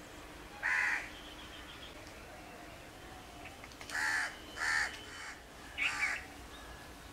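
Harsh cawing calls of a bird, four in all: one about a second in, then three more close together from about four seconds in.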